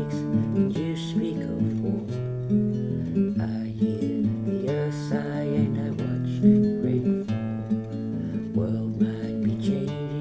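Music: a strummed acoustic guitar playing an instrumental passage of a song, its chords changing every second or so.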